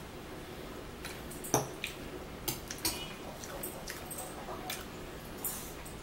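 Close-up wet chewing of kiwi fruit: irregular squishy mouth clicks and smacks, with a sharper click about one and a half seconds in.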